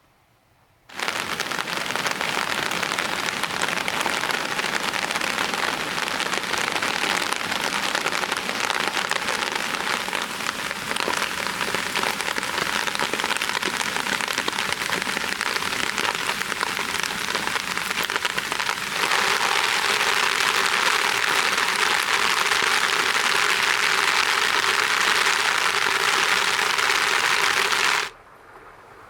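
Heavy rain falling, a dense, steady hiss that starts suddenly about a second in, grows heavier about two-thirds of the way through, and stops abruptly near the end.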